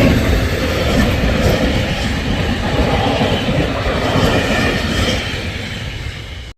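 A train running past on the rails, with a few wheel clicks over the rail joints, its sound fading away over the last second or so.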